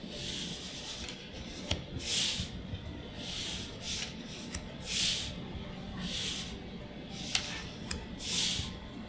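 Trading cards being slid one at a time off a stack, a soft papery swish every second and a half or so, with a few sharp clicks of card edges in between.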